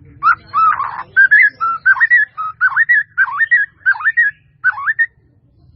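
A run of quick whistled notes, each swooping down and back up, that stops about five seconds in.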